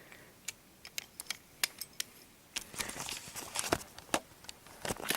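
Scattered light clicks and taps of small toy vehicle models being handled and set down, coming more often in the second half.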